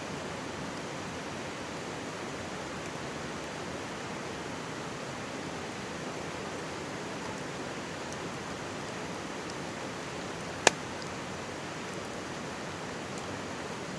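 Mountain stream babbling steadily, with faint crackles from a wood campfire and one sharp, loud pop from the burning wood about three-quarters of the way through.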